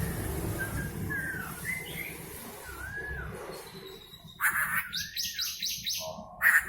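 Poksay hongkong (laughingthrush) singing: soft slurred whistles at first, then from about halfway a loud burst of rapid, harsh repeated notes mixed with swooping whistles.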